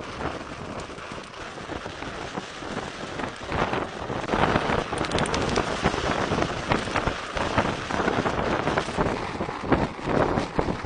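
Blizzard wind blowing, a continuous rushing noise that grows louder about four seconds in.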